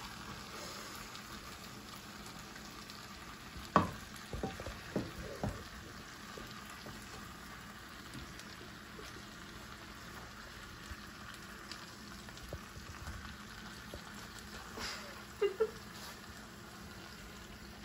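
Filet mignon and hash browns sizzling steadily in a stainless steel frying pan. A wooden spatula knocks and scrapes against the pan a few times about four to five seconds in, and again briefly near the end.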